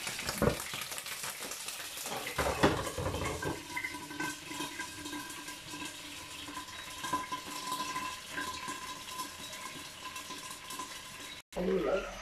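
Chicken pieces, carrots and potatoes sizzling in a large pot under a glass lid. The lid knocks against the pot a couple of times in the first three seconds, then a steady sizzle.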